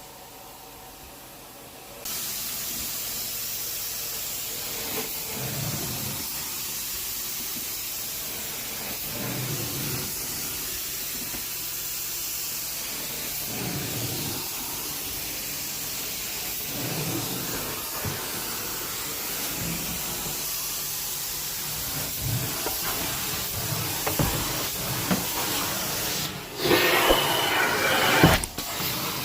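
Carpet-cleaning vacuum running with a steady rushing hiss, with a soft low swell every few seconds as the tool is worked back and forth. It starts about two seconds in after a quieter moment and gets louder and rougher near the end.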